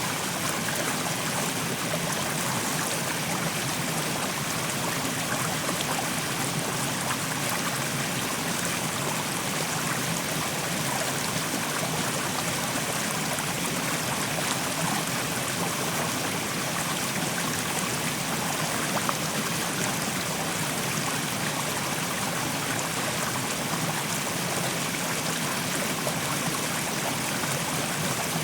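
Mountain stream flowing steadily over rocks, a continuous rush and trickle of water.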